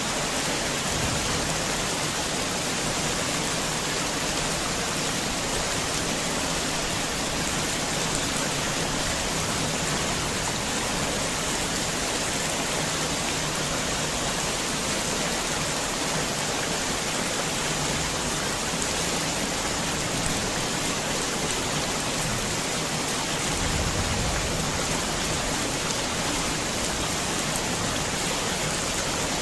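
Heavy rain falling steadily, an even hiss of drops with no break, and a short low rumble underneath about three-quarters of the way through.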